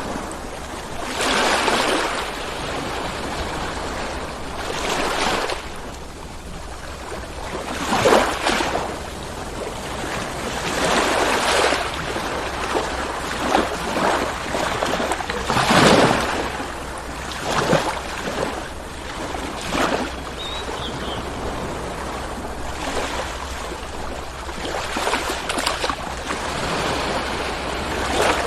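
Ocean waves breaking and washing onto shore, a steady roar of surf that swells with each wave every few seconds.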